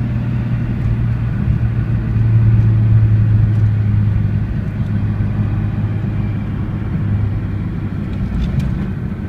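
Nissan 300ZX Twin Turbo's 3.0-litre twin-turbo V6 (VG30DETT) running steadily while the car is driven, as a low drone that swells a little about two seconds in and then eases back.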